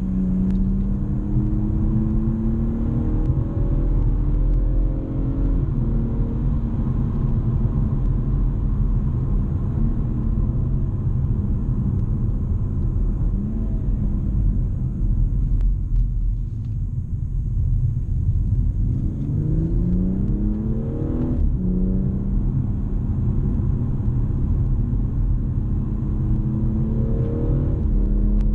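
BMW M240i's 3.0-litre turbocharged straight-six heard from inside the cabin, pulling hard. The engine note climbs and drops back at quick upshifts, holds steady, then falls slowly as the throttle is lifted. It climbs again to a shift about two-thirds in that ends with a sharp pop, and starts rising once more near the end.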